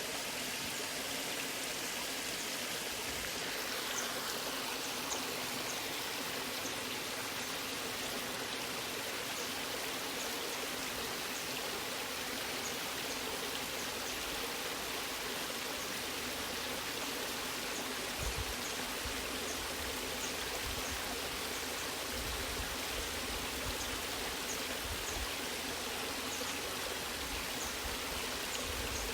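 Waterfall and stream water rushing steadily, an even, unbroken rush with faint low rumbles in the second half.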